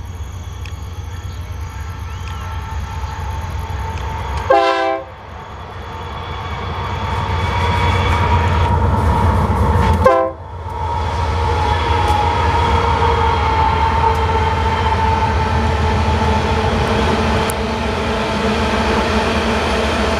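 Heavy loaded iron-ore train passing, led by Wabtec AC44i diesel-electric locomotives: a steady low rumble and rolling of the locomotives and ore wagons. Two short locomotive horn blasts, about five and ten seconds in, each cut off abruptly. The wagons' rolling then grows louder, with a few steady tones held over the rumble.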